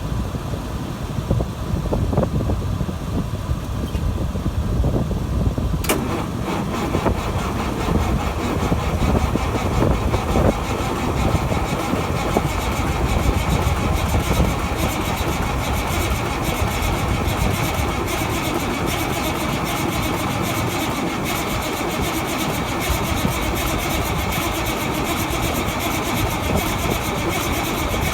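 Cummins 855 straight-six diesel in a Versatile 875 tractor starting from cold at −6 °C with no ether: a low rumble for about six seconds, then the engine catches and runs, settling to a steadier run in the second half.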